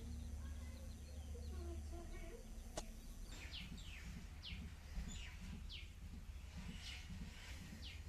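Small birds chirping, a run of short falling chirps starting about three seconds in, over a low hum; a single sharp click comes just before the chirps begin.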